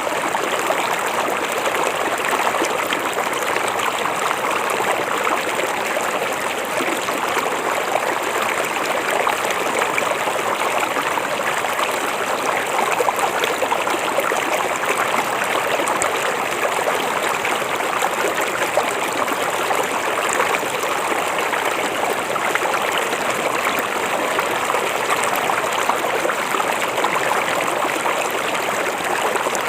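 River water flowing, a steady, even rush with no pauses or changes.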